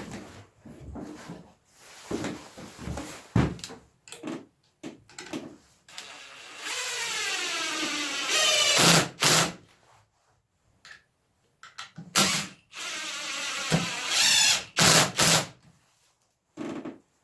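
Bandsaw cutting through a log in two passes, its pitch sagging as the blade takes the load. Short knocks and handling noises come before and between the cuts.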